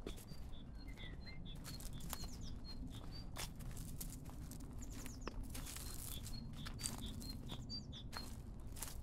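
A small songbird singing a phrase of short high notes with quick falling sweeps, repeated several times, over a steady low rumble and scattered clicks and rustles.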